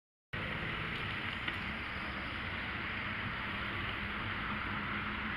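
Steady traffic and wind noise on a moving bicycle-mounted microphone, cutting in abruptly a moment in.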